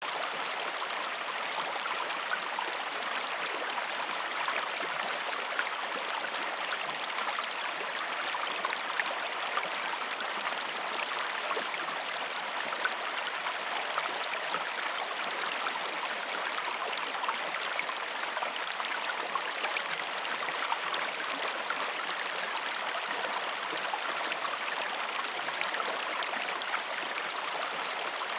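A river's running water, a steady rush with fine splashing and trickling throughout.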